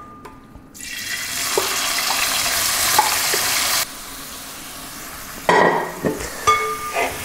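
Boiled clam meat dropped into hot coconut oil in an aluminium pan, sizzling loudly from about a second in, then dropping abruptly to a quieter, steady sizzle. Near the end a metal spatula scrapes and clinks against the pan as the clams are spread out.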